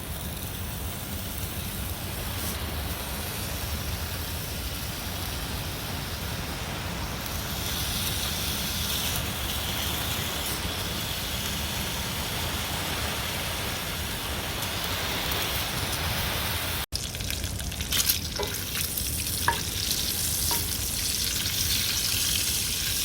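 Food frying in a pan on a camp stove: a steady sizzling hiss, with a few sharp clicks of a utensil against the pan about 18 to 20 seconds in.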